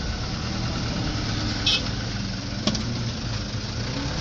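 Mitsubishi Canter truck engine running steadily at low revs. There is a brief high squeak about halfway through and a sharp click a second later.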